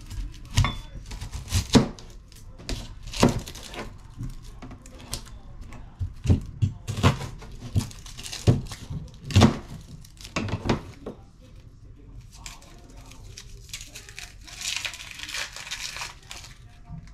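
Kitchen prep handling: a series of sharp knocks and clatters, then a plastic bag or wrapper being crinkled and torn open near the end.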